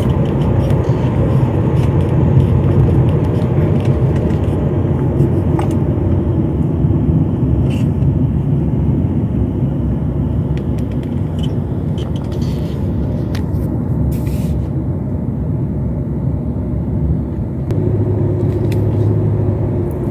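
Inside the cabin of a 2018 Honda CR-V with the 1.5 turbo engine, driving at about 50 km/h: a steady rumble of engine and tyres, with a deeper hum that grows louder near the end. No turbo hiss can be heard, because the boost leak at a loose intake hose clamp has been fixed.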